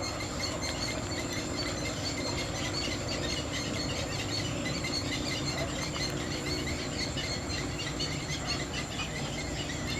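Steady outdoor ambience of insects and birds chirping, with a continuous high thin whine and a faint steady low hum underneath.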